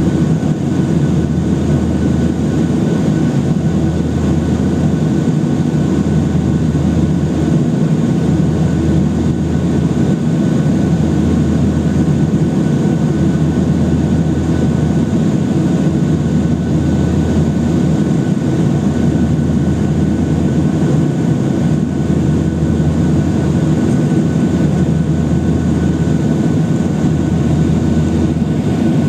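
Boeing 737-800 cabin noise from a window seat: the CFM56 jet engines run at a steady low power with a continuous rumble and a low wavering drone, plus a faint steady high tone.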